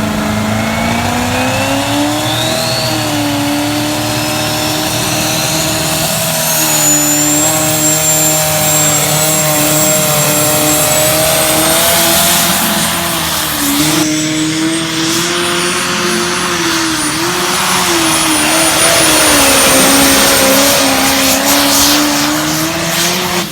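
Massey Ferguson 1150's Perkins V8 diesel running at high revs under load, its note wavering up and down. A high whistle climbs in pitch over the first few seconds and then holds high. The sound drops off sharply right at the end.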